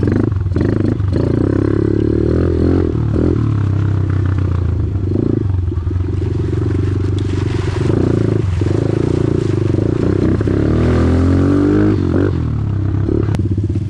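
Off-road engine running under throttle, its pitch rising and falling with the revs, climbing in a rev a couple of seconds before the end.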